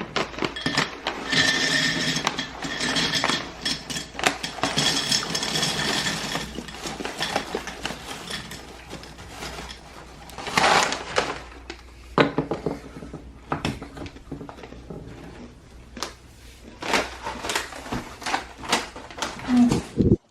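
Snack packages and containers being handled: rustling and crinkling of packaging with clinks and knocks as items are set down, and a louder burst of crinkling about ten seconds in.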